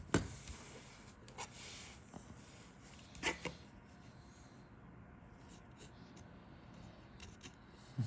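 Light handling noise: a few sharp clicks and knocks, the loudest right at the start and another about three seconds in, over soft rustling.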